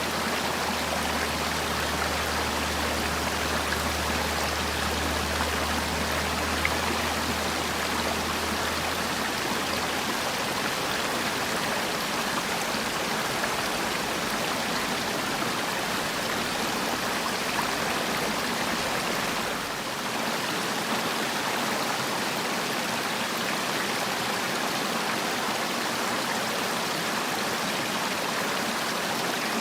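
Mountain valley stream running steadily, an even rush of water. A low rumble underneath fades out about a third of the way through.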